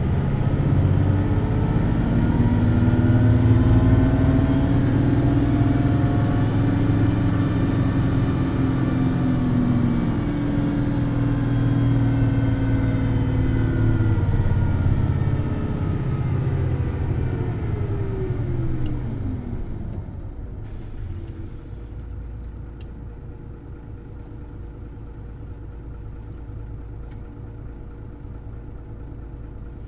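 Hino Blue Ribbon City Hybrid bus's diesel engine running at high revs under way, with a high-pitched electric whine that rises and then falls. About two-thirds of the way in, the engine and motor pitch slide down as the bus slows, leaving a quieter steady idle with a faint constant tone.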